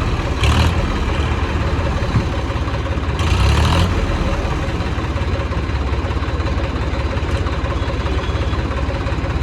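Tractor diesel engine running steadily at low revs, with two short bursts of hiss, the longer one about three seconds in.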